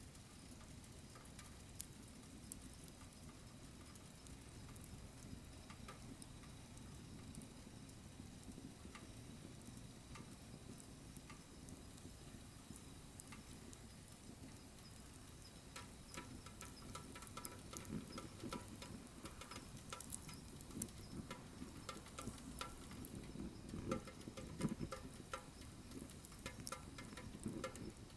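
Wood fire burning in a wood stove: a soft low rumble of flames with scattered crackles and pops. The crackling grows busier about halfway through, with a few louder pops near the end.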